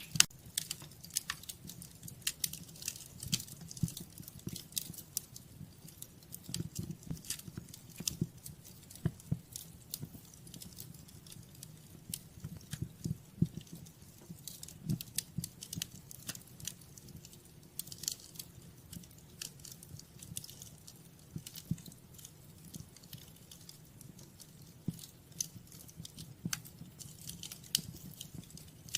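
Wood fire crackling in a fireplace: frequent irregular sharp pops and snaps over a soft, steady low rush of the flames.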